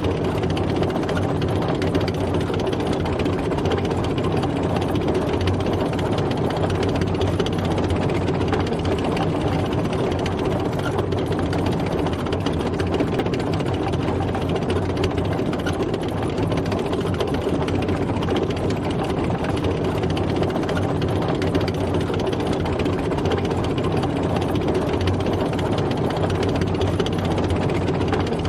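A tank driving, its engine running steadily and evenly with no change in speed or load.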